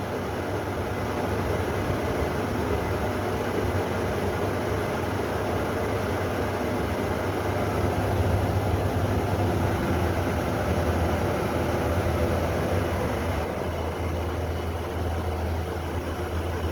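Two Almonard 75-watt, 1350 rpm in-and-out exhaust fans running together at full speed: a steady rush of air from the blades over a low, even motor hum.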